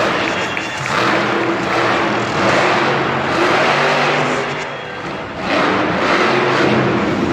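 Monster truck engine revving hard in surges, easing off about five seconds in and climbing again.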